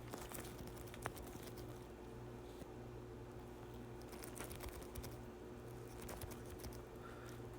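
Faint, irregular clicks of typing on a computer keyboard, over a low steady electrical hum.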